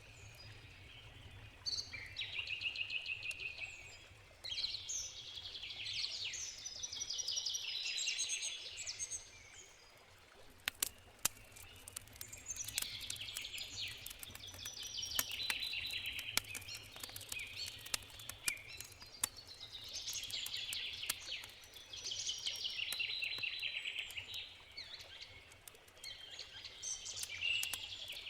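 Songbirds singing in repeated phrases of a few seconds each, over the crackle and sharp pops of a wood campfire. A steady low rush of river water runs underneath.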